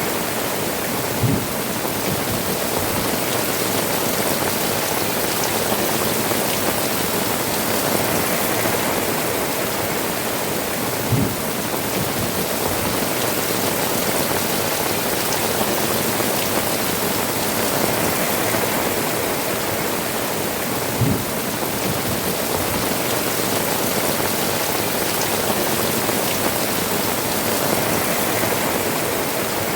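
Heavy rain falling steadily on tiled roofs and dripping from the eaves, an even hiss. A dull low thud comes three times, about ten seconds apart.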